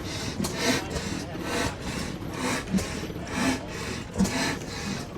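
A 10-horse Olin hit-and-miss oil-field engine turning over slowly, giving a rhythmic rasping whoosh about twice a second.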